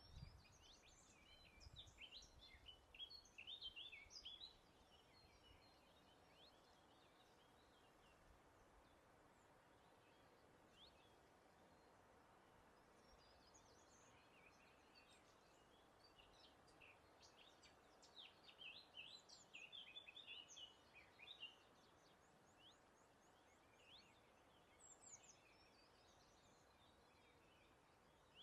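Faint birdsong: several birds giving short high chirps and trills in two bursts, one at the start and a longer one in the middle, with a few scattered calls near the end, over a faint steady outdoor hiss.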